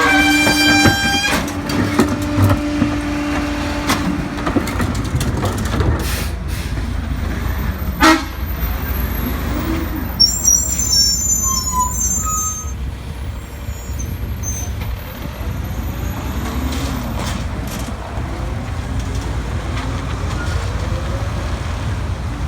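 Garbage truck on a CCC chassis with a Pak-Mor rear-loader body, its diesel engine running steadily. A steady pitched tone sounds for the first few seconds, a single sharp bang comes about eight seconds in, and high squeals follow around ten to twelve seconds in.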